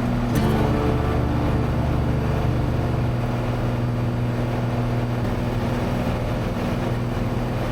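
Cessna 182's six-cylinder piston engine and propeller running steadily in the climb shortly after takeoff, heard as a loud, even drone inside the cabin.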